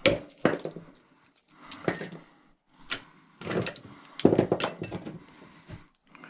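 A series of irregular knocks and clanks from metal scrap parts being handled and set down, about six in all.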